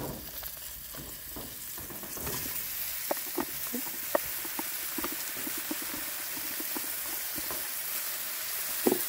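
Sliced white mushrooms sizzling in hot oil in a frying pan. The sizzle grows louder about two seconds in, with scattered crackles and pops.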